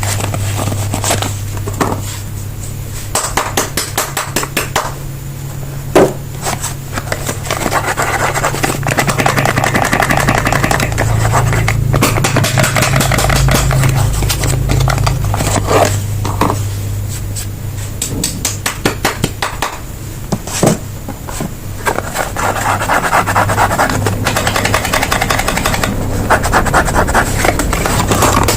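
Soap packaging being opened by hand: crinkling wrappers, scraping and sharp clicks, with stretches of dense rapid crackling, over a steady low hum.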